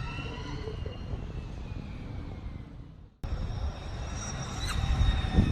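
Lightning Strike electric sportbike's motor whine dying away under road and wind rumble. An abrupt cut about three seconds in gives way to steadier road noise that grows louder toward the end.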